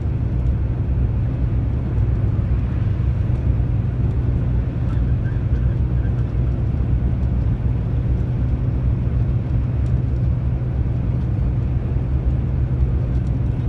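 Truck on the move: steady low engine drone with tyre and road noise.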